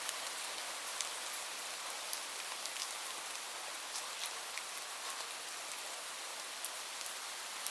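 Steady rain, an even high hiss with scattered sharper drop strikes.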